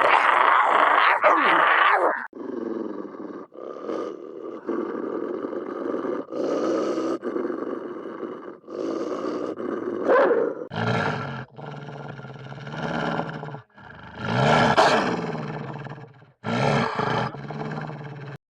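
A run of Hanna-Barbera cartoon animal roar and growl sound effects played back to back, about nine short clips each cut off abruptly.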